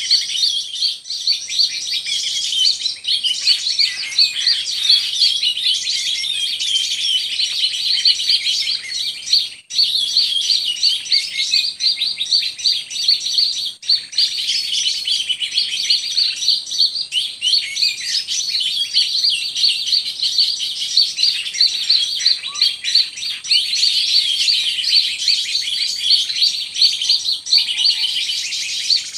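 Dense, continuous rapid bird chirping and twittering, many quick high notes run together at a steady level, dropping out briefly about ten seconds in.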